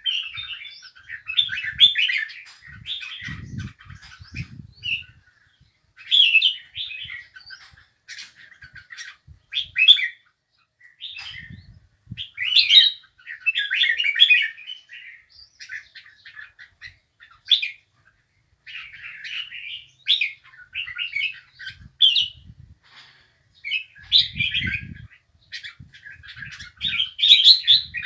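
A songbird singing in short, chirpy warbled phrases that repeat with brief pauses, with a few soft low thumps in between.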